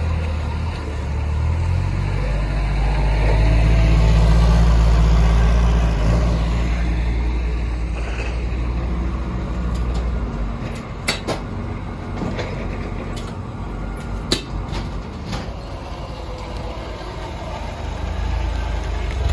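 Box truck engine running as the truck maneuvers, with its rumble dropping away about ten seconds in, followed by a few sharp clicks and knocks.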